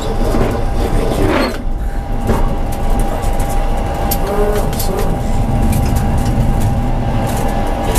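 Tram running along the track: a steady rumble of wheels on rails and traction equipment, with a thin steady whine throughout and occasional short clicks.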